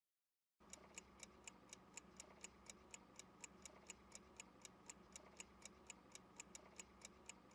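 Faint ticking-clock sound effect counting down a pause for the learner to answer, at about four ticks a second. It starts about half a second in, after dead silence.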